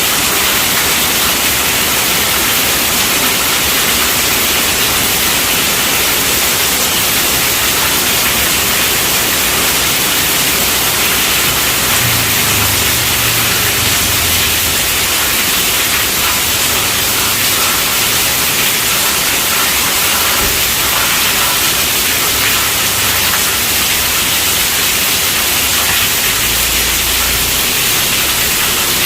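Steady rainfall, a dense, even hiss with no breaks or changes in level.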